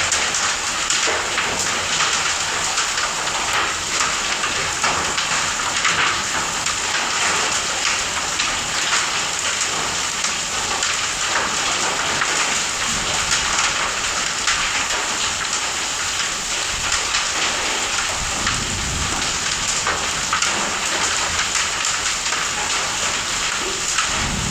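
Hailstones falling with heavy rain, a steady dense patter of many small hits.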